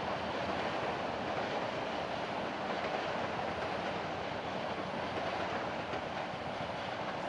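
Passenger train rolling across a steel truss viaduct, a steady rumble of wheels on rails.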